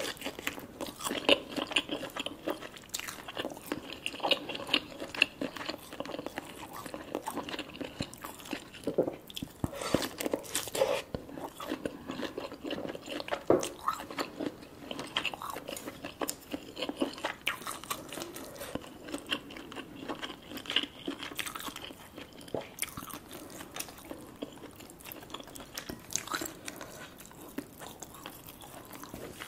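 A person biting and chewing lobster claw meat, a dense run of small mouth clicks and smacks that goes on throughout.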